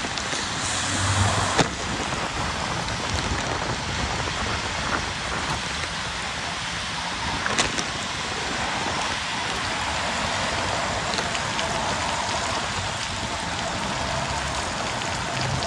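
Heavy rain with a steady hiss, heard from a bicycle riding through the downpour. About a second in there is a brief louder rush that ends in a sharp knock, and another sharp click comes about halfway through.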